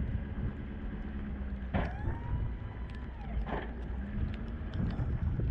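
Diesel pickup engine of a 2016 Ford F-250 6.7L Power Stroke, a V8, running steadily. About two seconds in come two sharp clicks, a second and a half apart, with a brief whine rising and falling between them.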